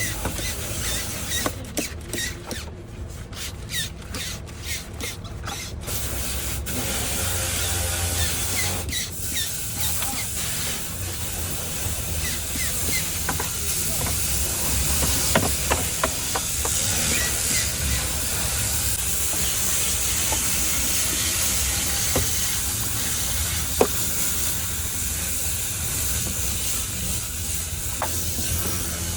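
Cleaning equipment spraying: a steady hiss over a low motor hum, with scattered clicks and a few sharp knocks.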